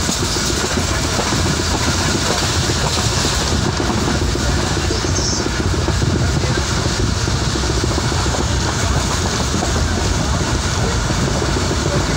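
Passenger train running at speed, heard from inside the coach: a steady, loud rumble and rattle of the wheels on the track.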